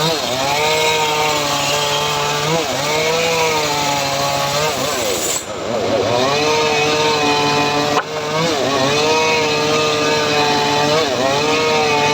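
Engine-driven homemade circular saw rig running under load as it cuts teak. The engine note sags and recovers again and again as the blade bites into the wood, with a sharp click about eight seconds in.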